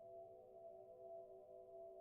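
A faint, steady ambient drone of several held tones sounding together, low-to-middle in pitch, unchanging in pitch and level.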